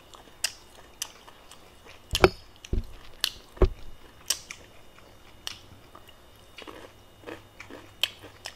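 Close-miked chewing and mouth sounds of a person eating, with scattered wet clicks and two louder thuds about two and three and a half seconds in.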